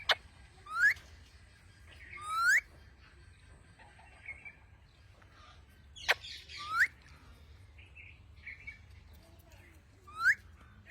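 Pet parrot giving short rising whistles, four of them spaced a few seconds apart, with a few sharp chips in between.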